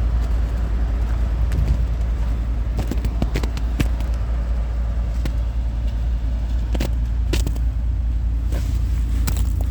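Loud, steady low rumble with scattered sharp clicks and taps throughout.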